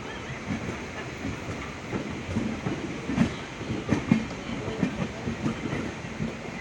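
Passenger train running along the line, its wheels rumbling and clattering over the rail joints with irregular knocks, a few louder ones near the middle.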